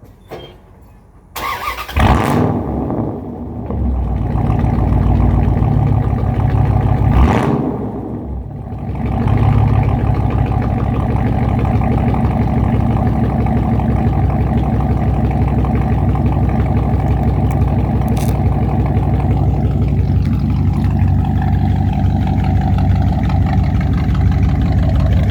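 A 5.9 L 360 V8 engine with straight-piped true dual exhaust starts up about a second in, revs and settles over the next several seconds, then idles steadily through the open pipes.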